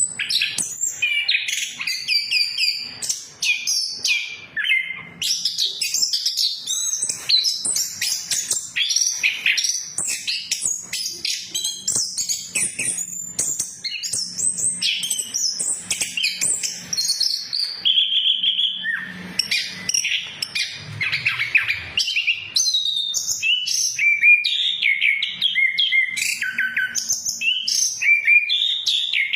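Orange-headed thrush singing continuously, a rapid unbroken run of varied whistled and chattering phrases.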